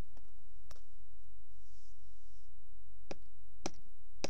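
A few light, sharp clicks of plastic toy figures being handled, over a steady low hum.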